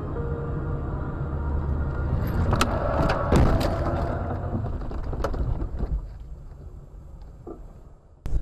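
Vehicle running with a steady low road rumble, a cluster of sharp knocks and bangs about three seconds in, then the sound fades away.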